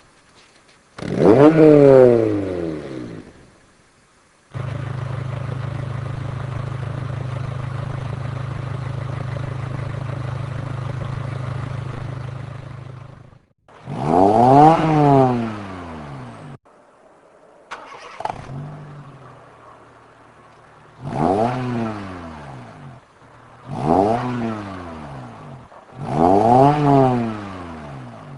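Honda car engine with an aftermarket muffler, free-revved in short blips that rise and fall in pitch. After one blip it idles steadily for several seconds, then it is blipped again about four times in quick succession.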